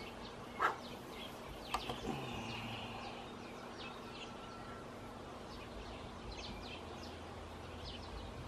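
Small birds chirping and twittering in the background, faint and scattered, with one short knock well under a second in and a couple of fainter ticks near the two-second mark.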